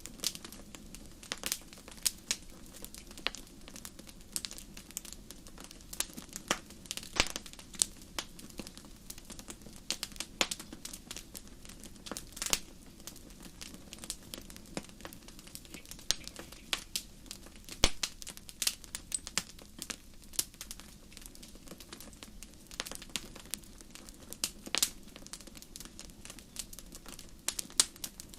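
Wood fire burning and crackling: irregular sharp pops and snaps, a few much louder than the rest, over a steady low background.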